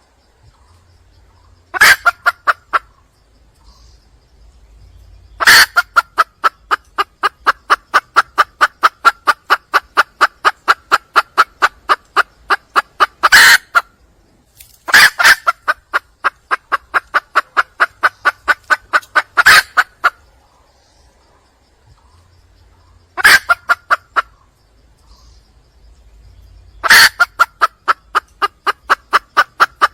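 Red junglefowl hen calling for a male: runs of rapid, evenly spaced clucks, about three or four a second. They come in bouts with short pauses between, some about a second long and others several seconds long.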